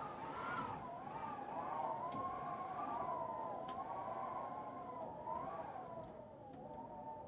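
A distant siren wailing and slowly fading, its pitch wavering up and down, over a steady hiss of rain with a few sharp crackles from a fire.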